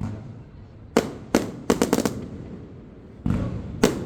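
Aerial fireworks shells bursting. A sharp bang comes about a second in, then a quick string of crackling reports near two seconds. A deeper, longer boom follows after three seconds, and another sharp bang comes near the end.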